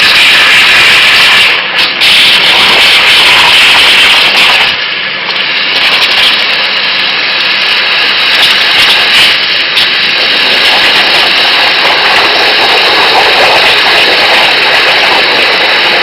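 CNC waterjet cutter cutting stainless steel sheet: a loud, steady hiss of the high-pressure jet, dipping briefly about five seconds in.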